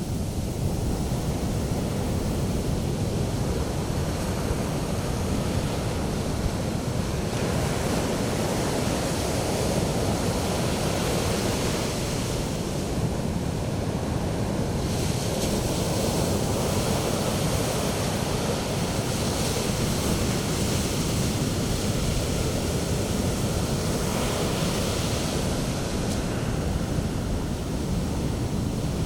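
Sea waves breaking and washing onto the shore: a continuous rushing surf whose hiss swells and eases several times as successive waves break into white foam.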